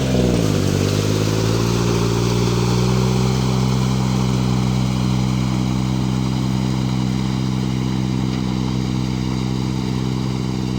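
Kubota L2202 tractor's diesel engine running. Its note dips sharply about half a second in, climbs back over the next few seconds, then holds steady.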